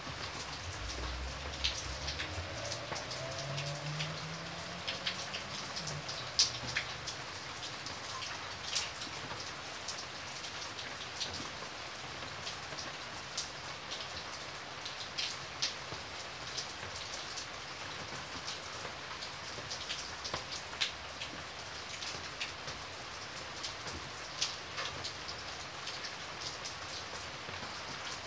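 Steady rain falling, with many single drops landing as sharp ticks at irregular intervals over a constant hiss.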